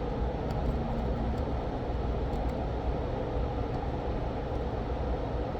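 Steady fan-like running noise, low and even, with a few faint light ticks in the first half.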